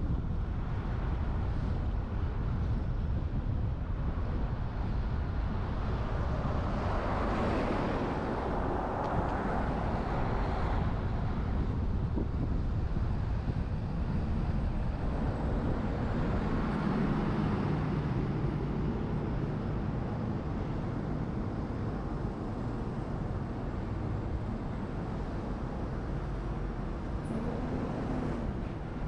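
A moving truck's road and tyre rumble with wind on a roof-mounted camera's microphone. The noise swells twice, about a quarter of the way in and again just past the middle.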